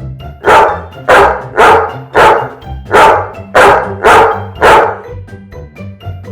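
A dog barking eight times in a quick run, about two barks a second, over background music.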